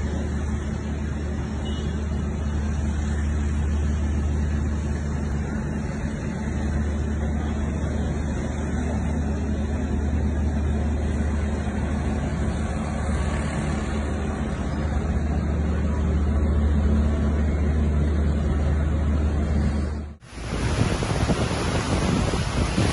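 Steady low rumble under an even rushing noise, like a road vehicle running in a rainstorm. It cuts off abruptly about twenty seconds in and gives way to a brighter rushing hiss of wind and water.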